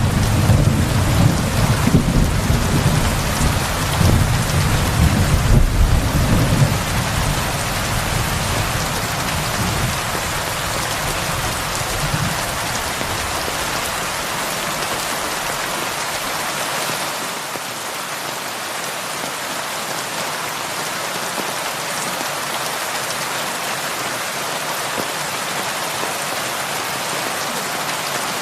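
Heavy rain falling steadily, with a low rumble of thunder in the first several seconds that dies away, leaving the rain alone.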